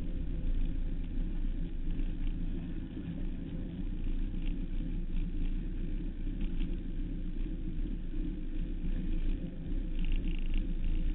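Suzuki Hayabusa 1300's inline-four engine running at a steady road speed, heard through heavy wind rumble on the bike-mounted microphone.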